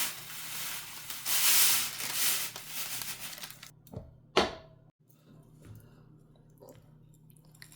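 Crinkling, crunching noise of something dry being handled, for about three and a half seconds, then two sharp knocks about four seconds in and a few faint small clicks.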